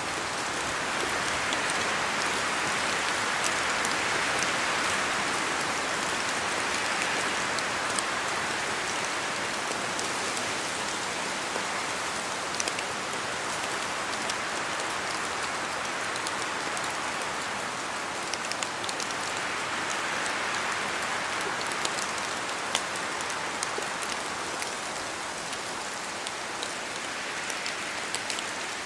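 Steady rain falling through forest trees, a dense hiss dotted with scattered sharp drops striking leaves. The rain noise swells and eases slowly twice, as gusts of wind move through the trees.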